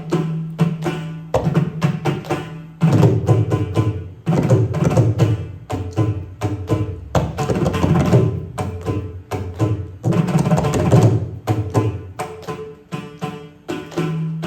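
Carnatic hand-drum percussion: fast, dense strokes over a steady low ringing drum tone, swelling in several louder flurries through the middle.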